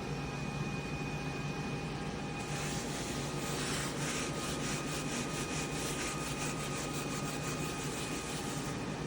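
A steady machine-like whirring hum with a few faint, constant high tones. From about two and a half seconds in, faint rapid scratching runs over it, and the sound cuts off abruptly at the end.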